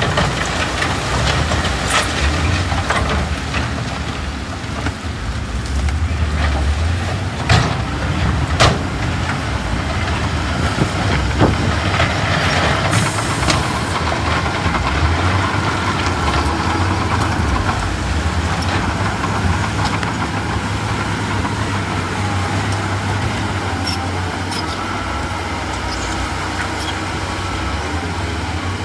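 Heavy diesel earthmoving machinery running steadily under load, a low engine rumble with several sharp metallic knocks and a short hiss of air partway through.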